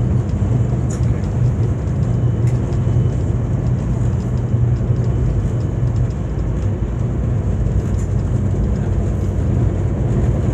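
VIA Rail passenger train running at speed, heard from inside the coach: a steady low rumble, with a few faint clicks.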